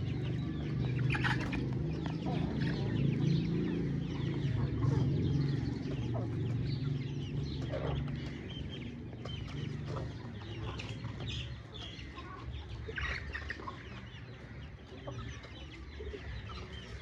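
A flock of young chickens clucking and cheeping, many short overlapping calls. A low rumble runs under the first half and fades about halfway through.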